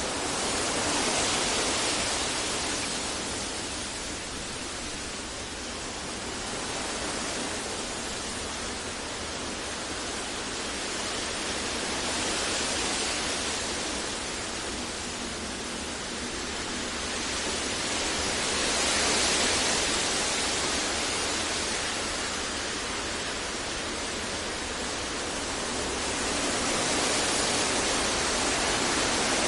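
Steady synthetic deep noise for sleep and focus: an even, featureless hiss spread across low and high pitches, slowly swelling and easing every several seconds.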